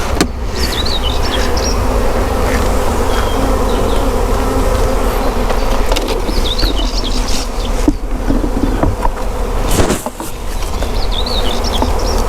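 A swarm of honeybees flying past, a dense, steady, loud buzzing hum of thousands of wingbeats.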